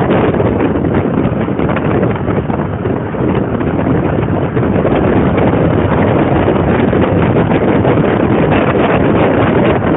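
Loud wind buffeting the microphone, a steady rushing noise with a slight dip about two to three seconds in.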